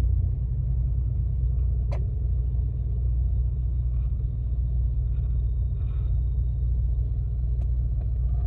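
Steady low rumble of an idling diesel truck engine, with a single sharp click about two seconds in.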